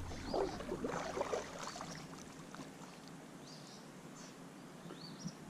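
A small bird chirping: short rising-and-falling notes repeated about once a second. Soft water splashes are heard in the first two seconds.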